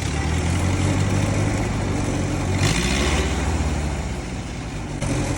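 Engine running steadily just after starting, its pitch shifting slightly about halfway through, after its spark plug wires were re-ordered on the distributor cap.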